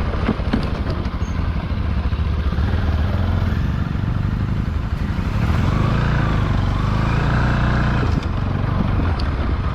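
Motorcycle engine running at low revs on a rough off-road descent, its note rising a little midway through and then settling again.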